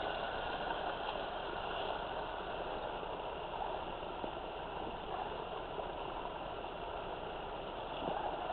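Steady rush of flowing water, an even noise that holds without change.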